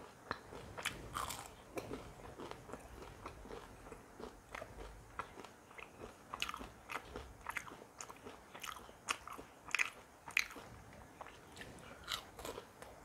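A person biting and chewing jalebi, the crisp syrup-soaked fried sweet, with soft irregular crunches throughout.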